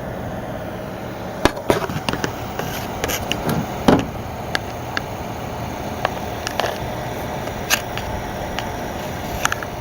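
Cooling fans of two EVGA GTX 670 FTW graphics cards running steadily at 100% speed under full benchmark load, with scattered sharp clicks and knocks over the fan noise.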